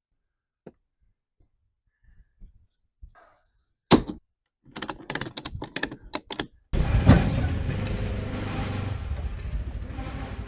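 A single heavy thunk, then a quick run of clicks and rattles, then an engine running steadily that comes in abruptly about two-thirds of the way through.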